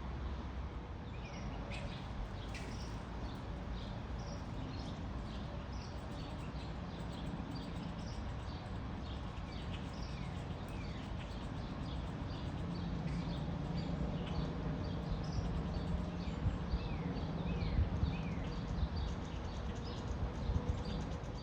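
Small birds chirping outdoors, many short high calls, often falling in pitch, repeated throughout, over a steady low background rumble.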